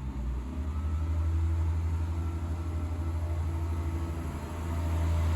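Diesel engine running steadily with a low, fast-pulsing hum, getting louder near the end.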